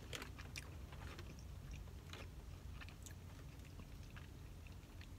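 Faint chewing of a soft chocolate donut hole, with scattered small clicks of the mouth.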